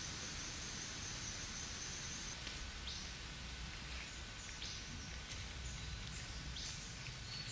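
Tropical forest ambience: a faint steady insect hiss, with several brief high chirps, each falling in pitch, from about two seconds in.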